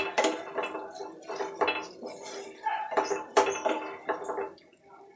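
Metal spoon scraping and clinking against a cooking pan in repeated strokes, about two a second, as chicken curry is stirred and fried (kashano). The strokes stop just before the end.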